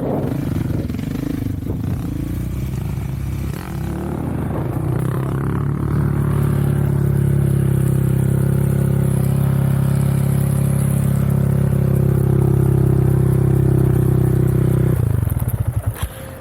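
Off-road vehicle engine running with uneven revs at first, then held at a steady, louder speed from about six seconds in. Near the end it cuts off suddenly and sputters down in a few fading beats.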